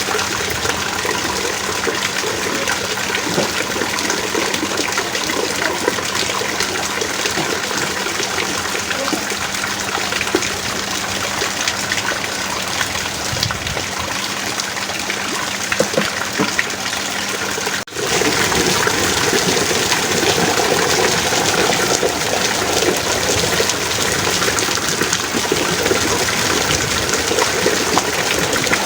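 Heavy rain pouring steadily, a dense even hiss, with a brief dropout about two-thirds of the way through, after which it is a little louder.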